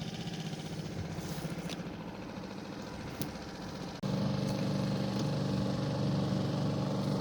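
Small boat outboard motor running steadily under way. About four seconds in, the sound breaks off for an instant and comes back louder and fuller.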